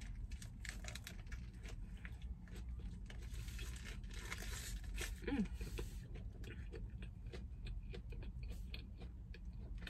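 Close-up chewing and biting into a crispy fried chicken sandwich: many small crunches and mouth clicks, with the paper wrapper crinkling now and then, over a low steady rumble.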